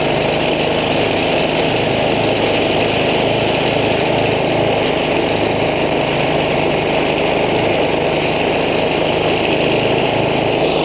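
Belt-driven rice thresher and its engine running steadily under load as rice is fed through.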